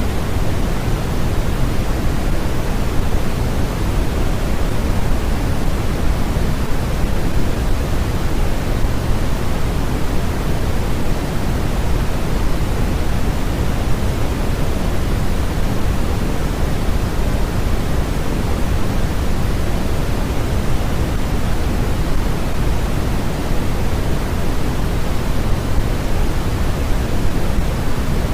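Continuous, unchanging generated noise, heavier in the bass and thinning toward the treble, like pink noise.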